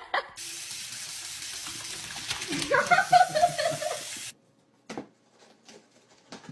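Water running steadily, like a tap into a sink, starting suddenly just after the start and cutting off about four seconds in, with a person's voice over it in the middle.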